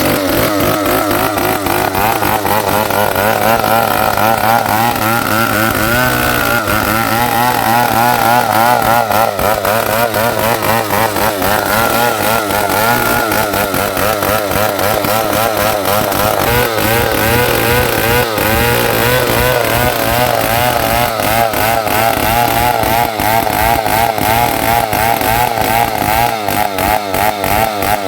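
New West 707 two-stroke chainsaw running at high revs while ripping lengthwise along an ulin (ironwood) log, its engine pitch wavering up and down as the load on the chain changes.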